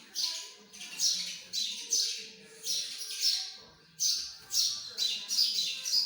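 Birds chirping and squawking in a run of short, harsh calls, about two a second.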